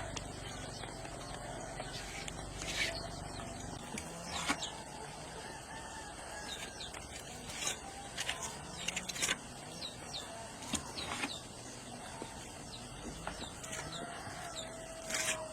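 Farmyard ambience: chickens and small birds calling, with scattered sharp knocks and taps throughout.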